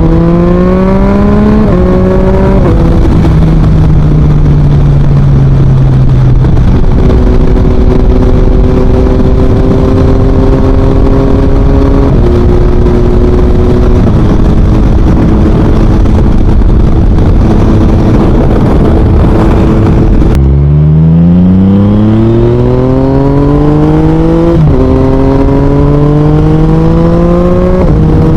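Yamaha MT-09's 890 cc inline-three engine through an Akrapovic full exhaust while riding. It accelerates through a couple of quick upshifts, eases off with the revs falling, and cruises steadily with a few gear changes. About three-quarters of the way in it pulls hard again, rising in pitch through several upshifts, over steady wind and road noise.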